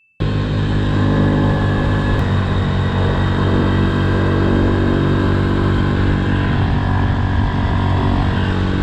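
Pit bike engine running on the street at a fairly steady pitch, cutting in suddenly at the start.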